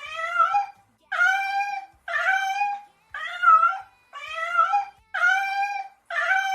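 An animal cry repeated seven times, about once a second: each call is short and high-pitched, rising and wavering before it stops.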